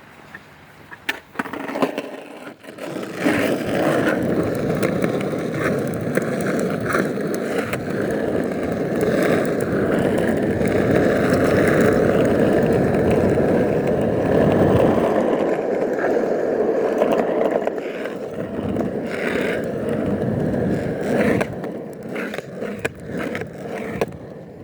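Skateboard wheels rolling over pavement, a steady rumble with scattered clicks from cracks and joints in the surface, starting a second or two in and easing off near the end.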